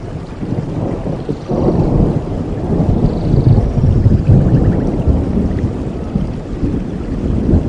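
Rain falling with a roll of thunder that swells about a second and a half in, rumbles for a few seconds and slowly fades.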